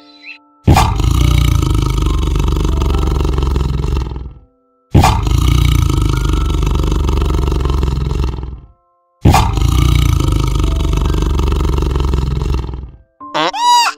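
A deep animal roar, three times over, each lasting nearly four seconds with a sudden start and an abrupt end. Just before the end a short bleating call begins.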